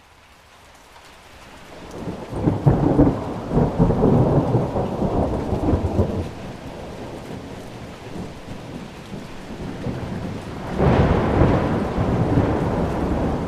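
Thunderstorm: rain fades in, then a long rolling rumble of thunder, and a second peal about eleven seconds in, over steady rain.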